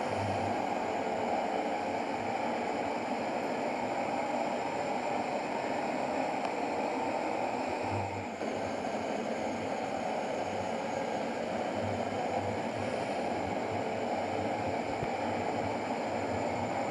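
Steady running noise of a moving truck, engine and road rumble mixed.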